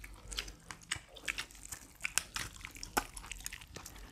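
Close-miked eating of barbecued chicken and rice: the chicken being torn and bitten and food chewed, heard as an irregular string of sharp clicks several times a second.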